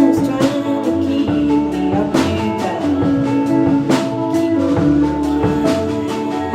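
Live band playing an instrumental passage: drum kit strikes over held chords and bass, with no singing.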